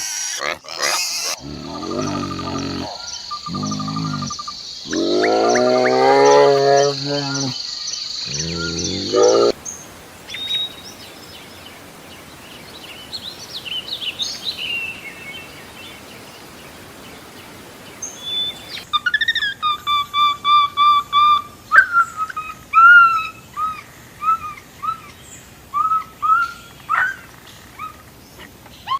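A run of animal calls. For the first several seconds there are long, deep, pitched calls. These are followed by scattered bird chirps and then a quick series of short, repeated chirping notes.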